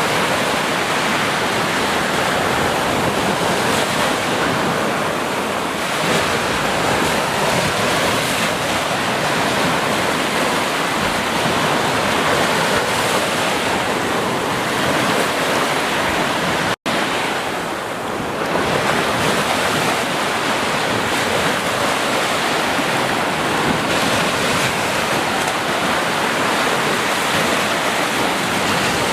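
Ocean surf washing onto a beach: a continuous rush of breaking waves that swells and eases slowly. The sound drops out for an instant about two-thirds of the way through, then resumes.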